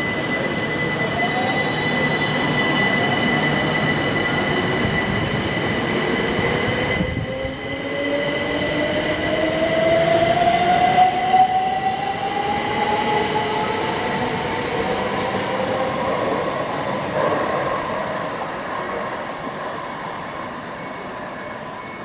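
Train at a station platform pulling away: a steady high whine, and a motor tone that rises smoothly in pitch through the middle as the train gathers speed. The sound eases off near the end.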